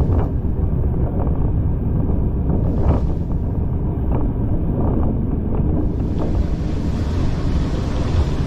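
Heritage train carriage on the move: a steady rumble of running gear on the track with wind buffeting the microphone, and a few scattered clicks.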